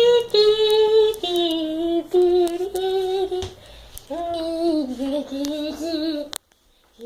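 A child singing a slow melody in long held notes, cut off suddenly near the end.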